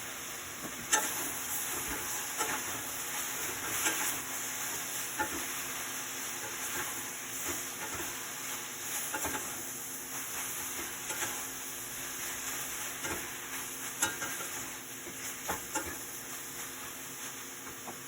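Food frying in a pan: a steady sizzle that comes up about a second in, with frequent clicks and scrapes of a utensil stirring against the pan.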